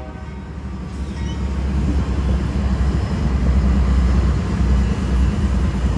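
Diesel locomotives of a loaded BNSF coal train running past, a steady low engine sound with rail noise over it, growing louder over the first couple of seconds.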